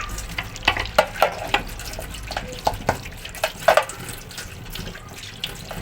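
Fridge parts being hand-washed in a basin with soap and water: water splashing, with a run of sharp knocks and clatters as the parts are handled, most of them in the first four seconds.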